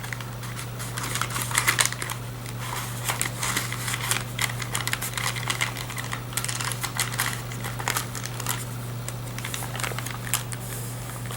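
Paper pages, tags and envelopes of a handmade junk journal being handled and turned: a run of irregular small rustles, crinkles and clicks, over a steady low hum.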